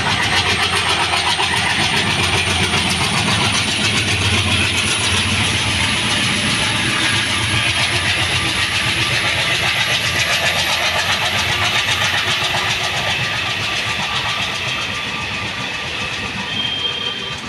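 ALCO diesel locomotive running under power as it hauls a train past, its engine and the running train making a loud, steady din that slowly fades over the last few seconds.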